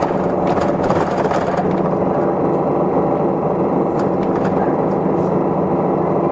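Inside an Isuzu Erga Mio city bus underway: its diesel engine runs steadily under road noise. Light rattling ticks come through in the first two seconds and again about four seconds in.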